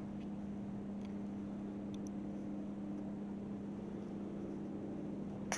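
A steady low hum under a faint hiss, with two faint ticks about two seconds in and a light click near the end.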